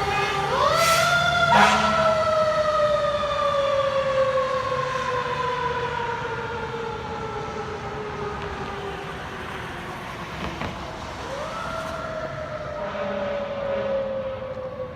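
Fire truck siren wound up quickly about half a second in, then falling slowly in pitch for several seconds before being wound up again near the end and falling once more, growing fainter over time. Two short, sharp sounds come about a second in.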